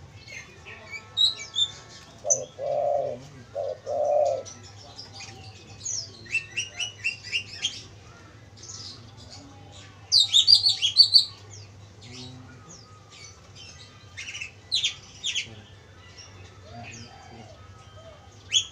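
Spotted dove cooing, two low coos a few seconds in and a faint one near the end, amid frequent high chirps from small birds that peak around the middle.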